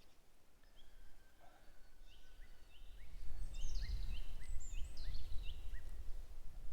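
Birds chirping, a run of short, repeated high chirps. A low rumble grows about three seconds in and becomes the loudest sound.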